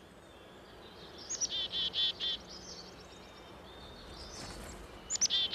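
Chickadee calling twice, each call a couple of high opening notes followed by a quick run of four or five repeated lower notes, over faint woodland background.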